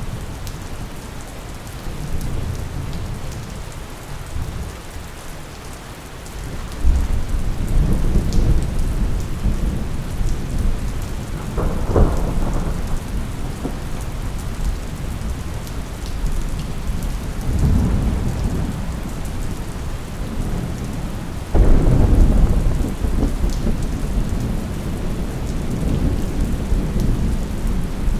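Thunderstorm: steady rain falling, with rolling thunder in the low end. Thunder breaks in suddenly about 7 seconds in, cracks sharply near 12 seconds, and claps loudest a little past the middle before rumbling away.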